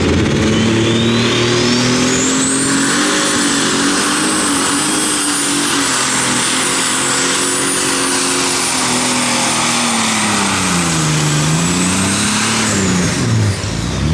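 A pulling tractor's engine running at full throttle during a pull. A high whistle climbs over the first few seconds and holds above the engine note. The engine pitch dips and recovers about eleven seconds in, and both fall away near the end as the engine is shut down.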